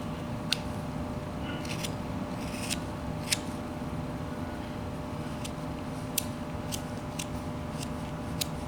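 Knife whittling wood: about a dozen short, crisp slicing cuts at an uneven pace as a small wooden apple is shaped, over a steady low hum.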